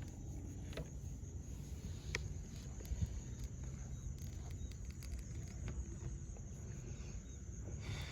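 Outdoor ambience: a steady high insect drone over a low rumble, with a few small scattered clicks and knocks.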